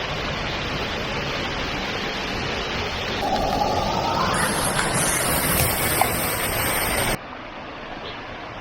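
Steady rush of flowing water from a jungle stream or cascade. A brief rising whistle-like tone comes about three seconds in. About seven seconds in, the rush drops suddenly to a quieter level.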